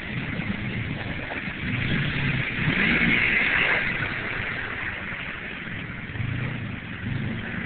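Motorcycle engine running while riding in snow, with a louder rushing hiss that swells about two seconds in and fades by about four seconds.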